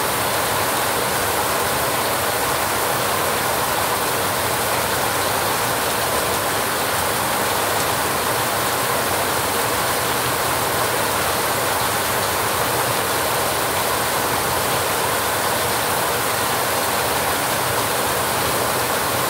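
Heavy rain falling steadily on a rusty metal roof, an even hiss that holds its level throughout.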